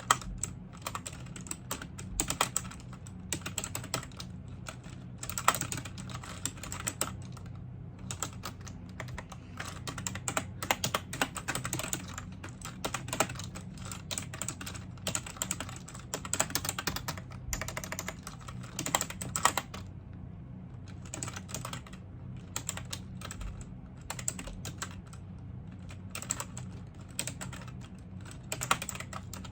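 Typing on a computer keyboard: rapid runs of key clicks with brief pauses, over a steady low hum.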